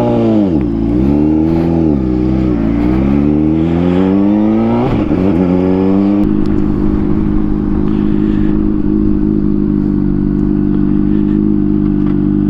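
Motorcycle engine with a baffle fitted in its exhaust, revving and pulling away with its pitch rising and dipping several times. About five seconds in there is a shift, and from there it runs at a steady pitch.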